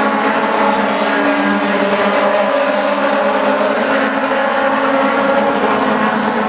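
Aussie Racing Cars' Yamaha 1300 cc four-cylinder motorcycle-derived engines racing at high revs, several engine notes layered over one another and held steady.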